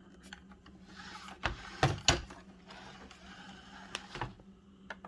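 Handling noise from a plastic robot vacuum: a few short clicks and knocks with soft rustling in between, over a faint steady low hum.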